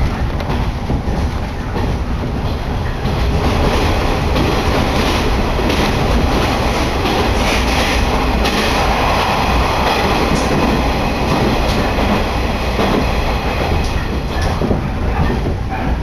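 Agatsuma Line train running at speed, heard from inside a passenger car: a steady rumble of wheels on rails with a scatter of clicks over the track.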